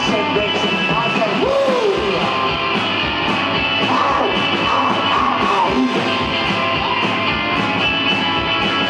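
Live rock band playing an instrumental passage: electric guitar notes bending up and down over a steady drum beat and bass.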